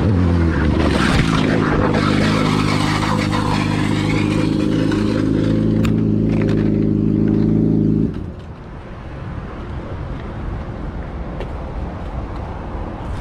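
A motor vehicle engine droning at a steady pitch for about eight seconds, then cutting off abruptly, followed by a quieter rushing noise.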